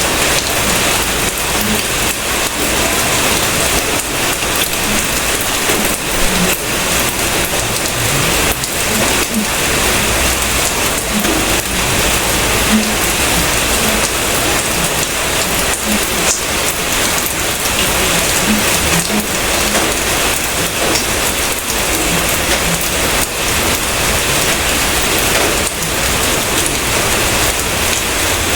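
Steady rain falling on a surface, with many separate drop hits heard through the even hiss.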